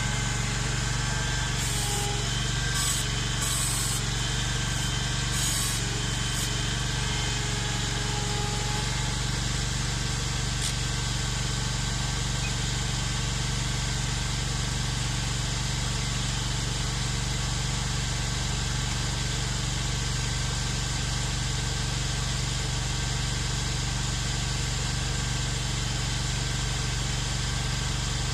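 A Ventrac compact tractor's engine running steadily under work. A few short high hisses come and go in the first six seconds.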